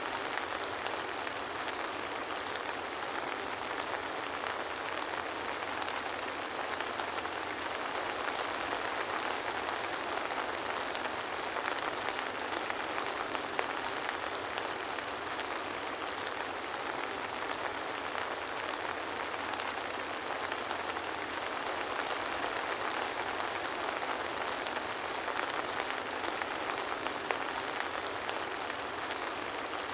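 Steady soft rain with no thunder, a dense even patter of fine drops falling onto a surface.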